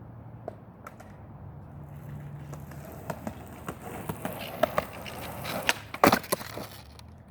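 Skateboard rolling on pavement, growing louder with scattered clicks from the wheels and deck, then a loud clatter of the wooden board striking the ground about six seconds in as a trick attempt comes down.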